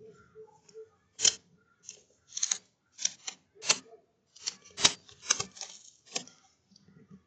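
An irregular series of short, sharp clicks and scrapes, about a dozen over several seconds.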